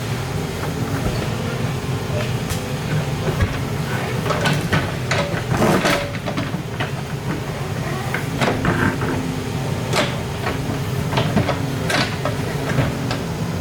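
Excavator's diesel engine running steadily under work, with many sharp metallic clanks and scrapes as it digs into rock and soil.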